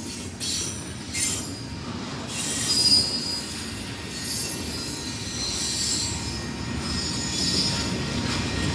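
Freight train rolling by with its steel wheels squealing against the rails: high-pitched squeals waver and come and go over a low rumble of the cars, which grows louder near the end.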